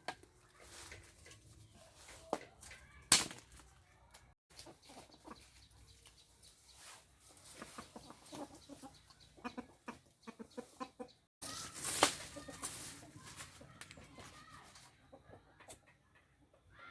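Chickens clucking amid scattered knocks and taps, with a sharp knock about three seconds in and a louder noisy burst about twelve seconds in. The sound drops out briefly twice.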